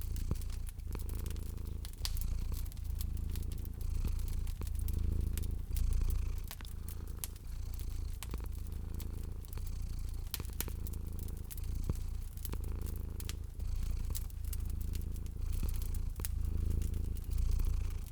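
Domestic cat purring, a deep rumble that swells and fades with each breath about every second and a half to two seconds. Many small sharp crackles of a wood fire pop irregularly over it.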